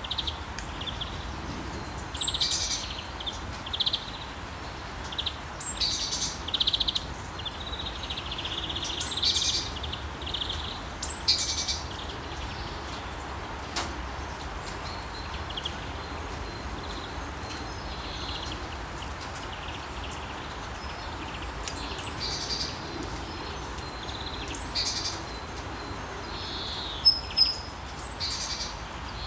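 Rainforest ambience: short, high bird calls come every second or two over a steady hiss of rain. The calls thin out in the second half, with two sharp calls near the end.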